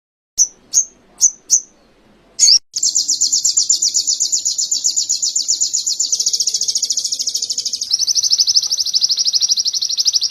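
A small songbird singing: four short, high chirps, then a long, very fast trill that shifts to a different roll twice before breaking off suddenly, in the style of canary song.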